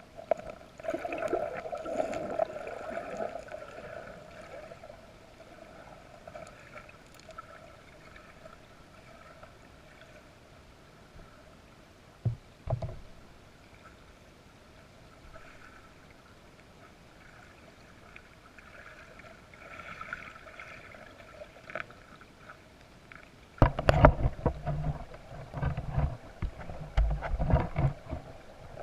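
Creek water running over stones in a steady babble. Near the end, loud irregular rumbling bursts cover it.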